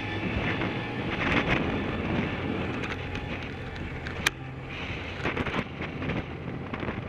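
Kawasaki ZZR600's inline-four engine running, with wind noise on the microphone, and a single sharp click about four seconds in.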